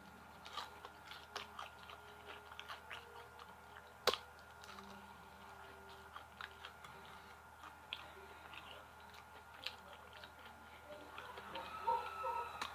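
A person chewing and crunching fried food close to the microphone, with smacking and many small irregular crunches. A single sharp crunch about four seconds in is the loudest.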